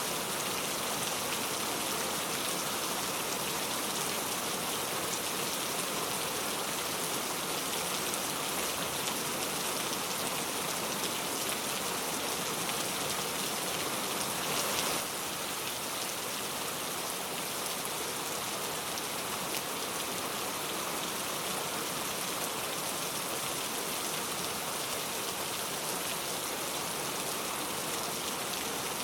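Steady rain falling, an even dense hiss. About halfway through it swells briefly and then drops a little quieter.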